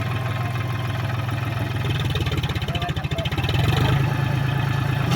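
John Deere 5045D tractor's three-cylinder diesel engine running steadily, growing louder about three and a half seconds in.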